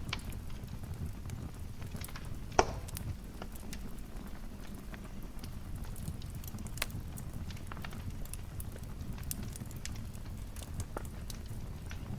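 Wood fire crackling in a fireplace: a steady low rumble of flames with scattered sharp pops and snaps, the loudest about two and a half seconds in.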